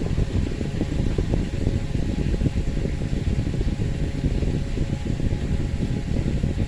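Electric fan blowing, a steady low rumbling rush of air with no breaks.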